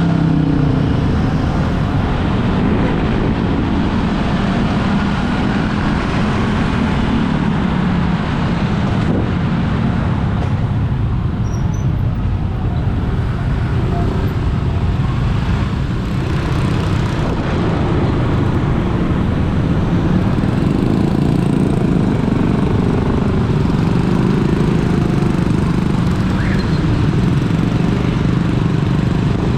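Steady engine and road noise of a motor vehicle travelling along a road, continuous and unchanging in level.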